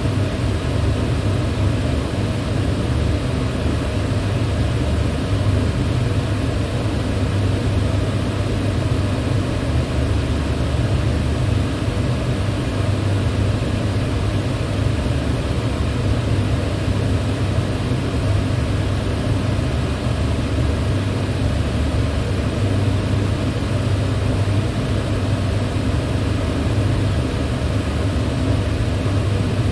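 Electric fan running steadily: a constant low whoosh with a steady hum underneath.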